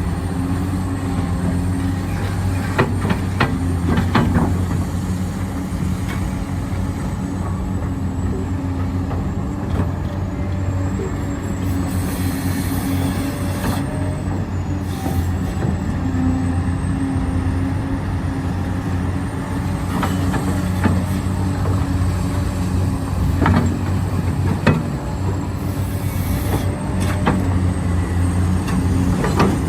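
Electric motors and gearboxes of 1:14 scale RC construction machines running steadily, with a constant low hum and a faint whine that rises and falls. A few sharp clacks come about 3 to 4 seconds in, twice in the second half, and again near the end.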